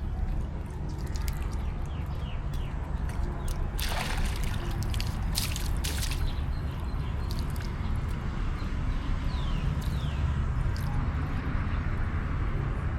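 Macaques splashing and sloshing water in a pool, with louder splashes about four seconds in and again near six, over a steady low rumble. A few short, high chirps sound now and then.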